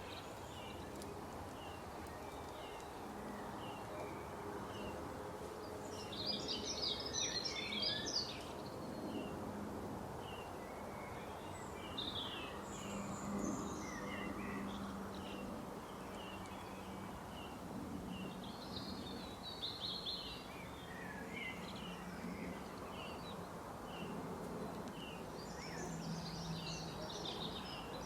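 Small birds chirping: one short chirp repeated about twice a second throughout, with several bursts of quick, higher twittering from other birds, over steady background noise with a low hum.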